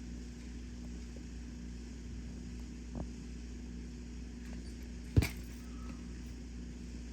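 A steady low hum, with a faint tap about three seconds in and one sharp thump about five seconds in.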